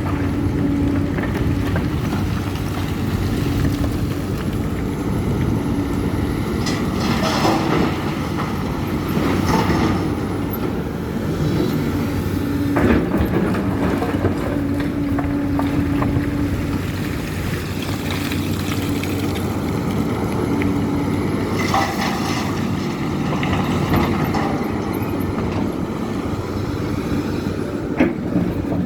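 Case CX300C excavator's diesel engine working steadily, with brief clattering and clanking from the machine and its load several times.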